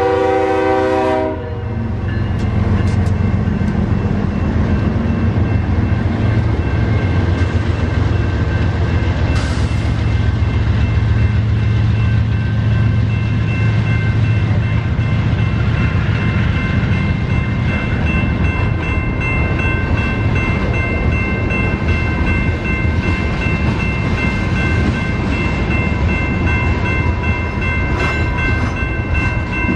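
Freight train's diesel locomotive horn cutting off about a second in, then the train's cars rolling past with a steady low rumble and clatter, under a faint steady high whine.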